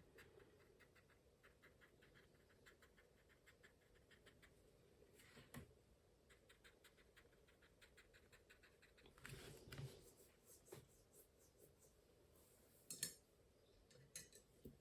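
Near silence with faint dabbing of a paintbrush on watercolour paper: a run of light, quick ticks, then a few louder taps and one sharper click near the end.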